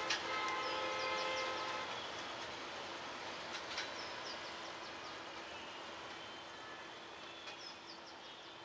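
Passenger train rolling away along the track, its running noise fading steadily. A horn sounds briefly in the first two seconds, and a few sharp clicks and short chirps come through over it.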